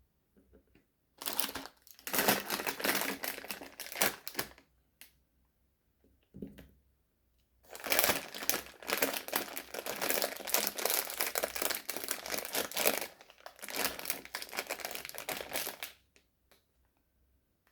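Sweet wrapper crinkling as it is handled, in two long spells with a pause of a few seconds between them.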